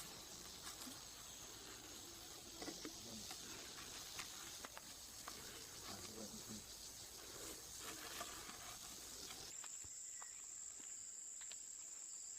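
Faint forest ambience: insects droning at a steady high pitch, with scattered small ticks and rustles. The insect tone shifts about nine and a half seconds in.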